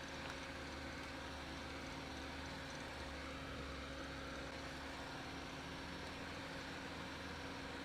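Lada Niva VAZ-2121 running steadily as it drives, a constant engine and drivetrain hum with a steady tone over road and wind noise, heard from inside the cabin.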